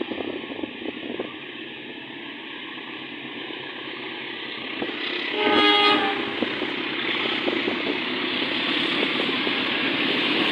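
A train approaching, its running noise growing steadily louder, with one horn blast of about a second a little past the middle.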